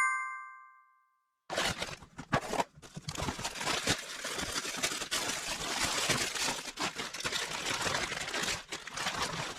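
A bell-like chime rings out and fades, then after a brief silence plastic packaging crinkles and rustles steadily as snacks are wrapped and handled.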